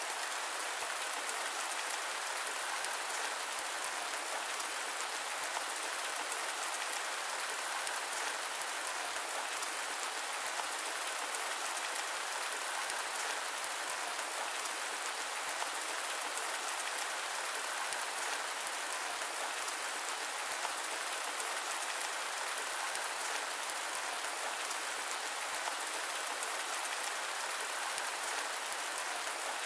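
Steady rain falling: an even, unbroken hiss with fine drop patter, light in the bass, with no thunder or other events.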